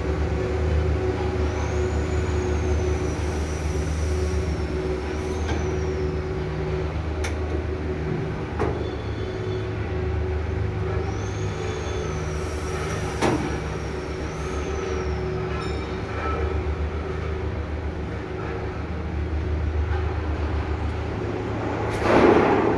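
A machine's motor or engine running steadily with a low hum, joined twice by a long high-pitched whistle that rises and then falls. A few clicks are heard, and a louder rush of noise comes near the end.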